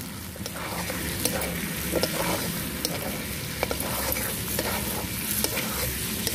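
Chicken pieces in thick masala sizzling in a large metal wok while a long metal spatula stirs and scrapes through them, with scattered clicks of the spatula against the pan.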